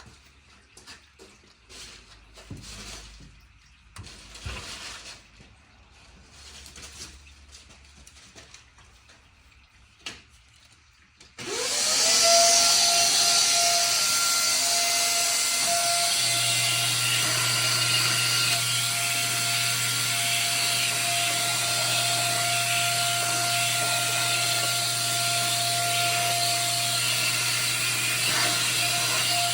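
Light clicks and knocks of hand work at first. About eleven seconds in, an electric motor-driven machine starts: its whine rises quickly to a steady pitch over a loud rushing hiss, and it then runs on steadily. A low hum joins a few seconds later.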